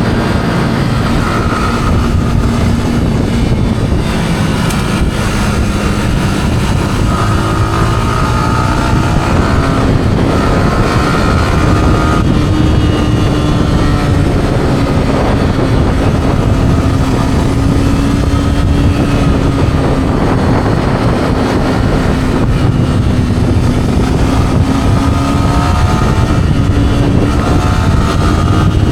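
Yamaha R15's single-cylinder four-stroke engine through its stock exhaust, running steadily under way with wind rushing over the microphone. The engine note sags slightly early on, then rises gradually toward the end.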